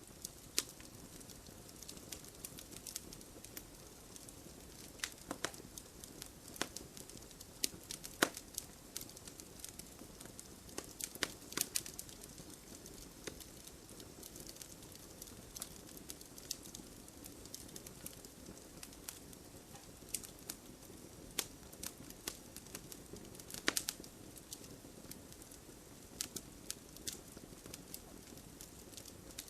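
Wood fire burning in a fireplace: a soft steady hiss with frequent irregular crackles and pops from the burning logs.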